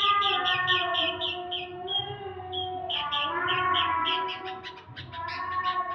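Sooty-headed bulbul (kutilang) singing busily: fast runs of short chirps, about six a second, with a short break about two seconds in, over lower drawn-out notes.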